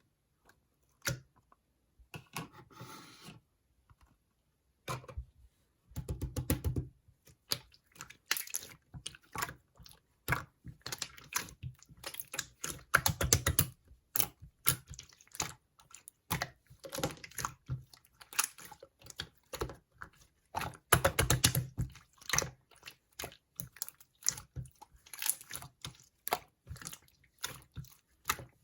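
Slime being squeezed and pressed by hand, giving bursts of rapid clicks and pops.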